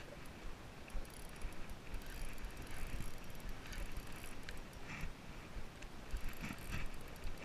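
Irregular mechanical clicking and ratcheting from fishing gear on a kayak, over a steady low rumble.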